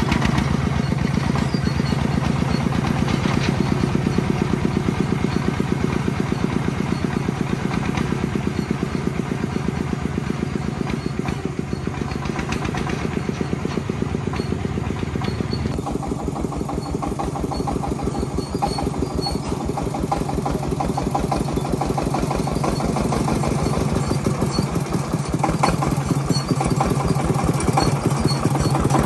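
Engine of a farm transport vehicle running steadily, its firing pulses coming close and even. The tone shifts about halfway through.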